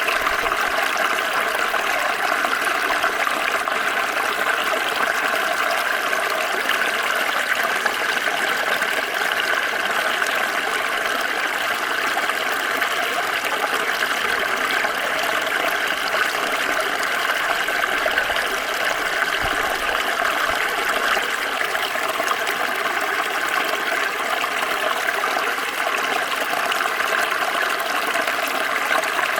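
Small stream flowing over stones, a steady, even babbling and rushing of water with no pauses or changes.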